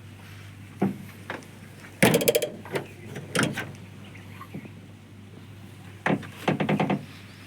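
Several sharp knocks and two short rattling clatters of rapid clicks, about two seconds in and near the end, over a steady low hum.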